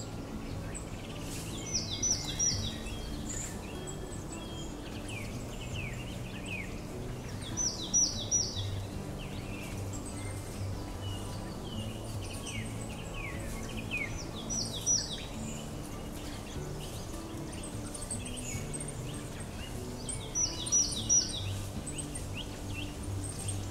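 A songbird singing short, high phrases of quick falling notes, four times, about six seconds apart.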